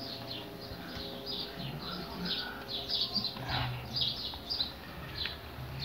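Small birds chirping, short high chirps repeating several times a second.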